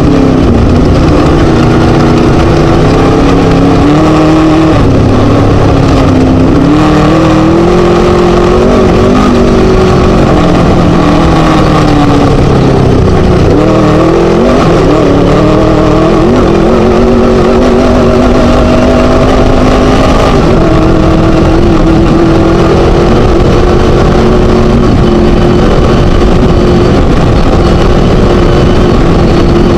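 Class 1 desert race buggy's Scat V4 engine running loud and hard, its pitch rising and falling as the revs change over the terrain. The revs dip and climb back about halfway through.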